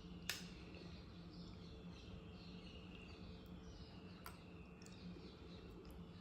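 Faint, rapidly repeated bird chirps over a steady low hum, with a sharp click about a third of a second in and another about four seconds in.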